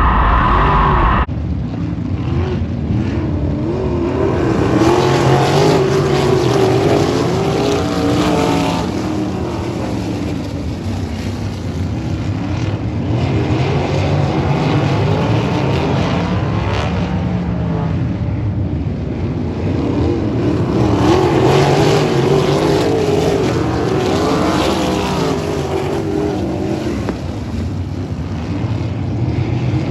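Several sprint cars racing on a dirt oval, their engines rising and falling in pitch through the laps and growing louder twice as the field passes. The sound changes abruptly about a second in.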